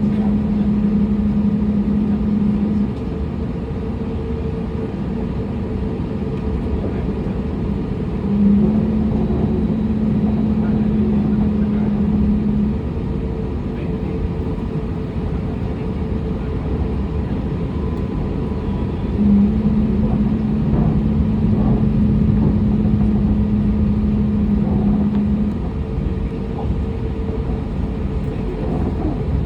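Airliner cabin noise before takeoff: a steady rumble of engines and air conditioning, with a low hum that comes on and cuts off three times, each time for a few seconds.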